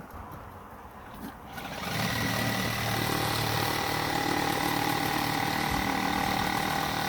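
A motor starts up about two seconds in and runs at a steady pitch without revving.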